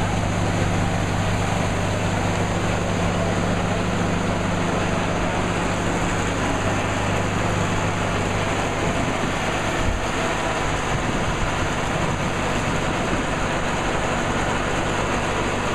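Tractor engine and silo-bag grain unloader running steadily, moving wheat out of a silo bag into a truck, with a steady engine hum that eases about two-thirds of the way through and a single brief knock.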